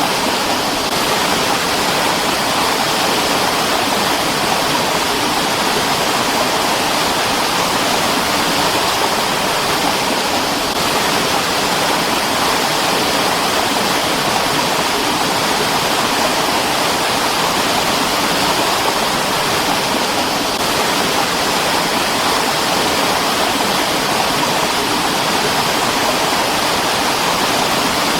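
Mountain stream rushing steadily over rocks: a dense, even white-noise-like rush of water with no breaks.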